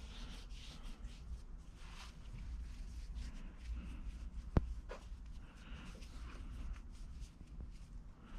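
Faint rustling and shuffling of objects being handled, with one sharp click about four and a half seconds in.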